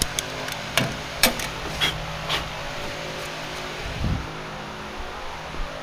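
Small parts being handled at the workbench: about five sharp clicks and clinks in the first two and a half seconds, then a dull thump about four seconds in, over a faint steady hum.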